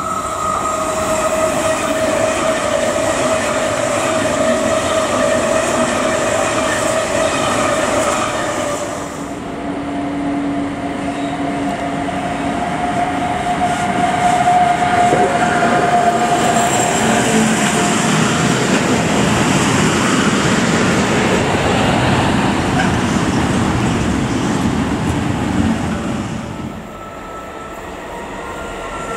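An SBB Cargo Re 482 electric locomotive hauling a container freight train passes close by, a long rush and clatter of wagons over the rails that fades near the end. Before it arrives, a steady high two-tone whine from a train in the station.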